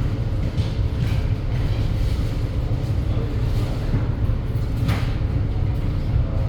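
Passenger ferry's diesel engine running with a steady low rumble, with one brief knock or clatter about five seconds in.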